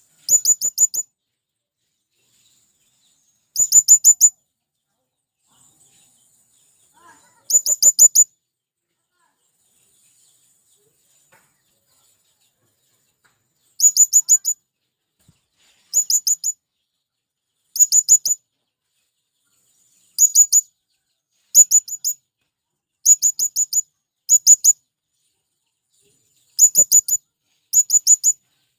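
Male blue-crowned hanging parrot (serindit) calling: short bursts of four to six rapid, very high, shrill notes, repeated about a dozen times at irregular intervals of one to six seconds, coming closer together in the second half.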